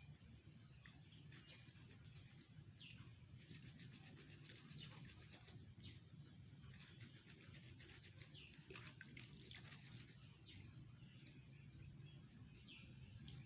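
Faint birds chirping in short high calls and quick chattering trills, over a low steady hum.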